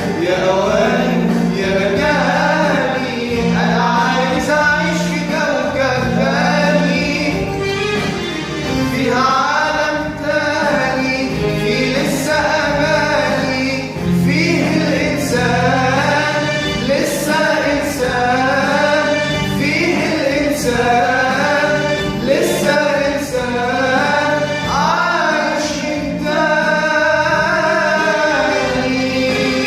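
Male voice singing an Arabic song with long, ornamented phrases over instrumental backing with a steady bass line.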